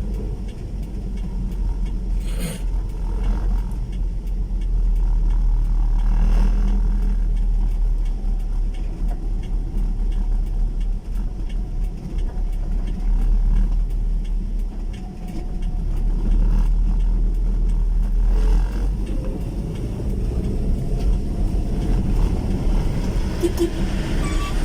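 Motor vehicle running on the road with a heavy steady low rumble, with a couple of brief knocks a few seconds in.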